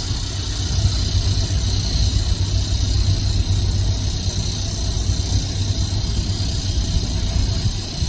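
Engine running steadily: a constant low rumble with a steady hiss above it.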